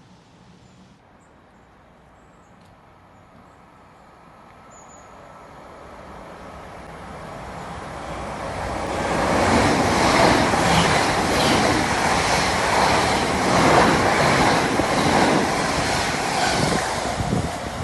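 A train approaching and passing on the main line, growing louder over several seconds to a loud rushing run with a regular clatter of wheels over the rails.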